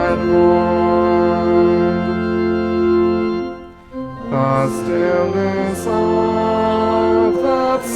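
Church organ playing a hymn in sustained chords, with a congregation singing along. The music breaks off briefly about three and a half seconds in, then the next phrase begins.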